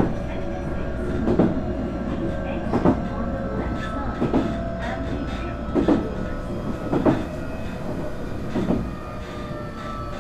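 Nankai 8300 series electric train running, heard from inside the motor car: wheels clack over rail joints about every second and a half over a steady rumble. A steady whine comes from the VVVF inverter and its fully enclosed induction traction motors.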